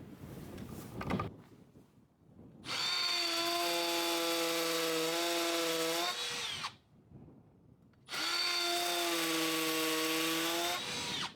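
Cordless drill-driver with a Phillips bit running twice in steady whines of about three seconds each, with a short pause between. Each run winds down in pitch at the end, as when driving screws into a hose reel hanger frame.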